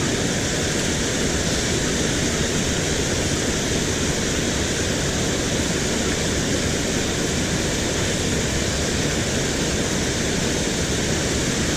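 Water rushing steadily over a small spillway, a loud, even wash of noise.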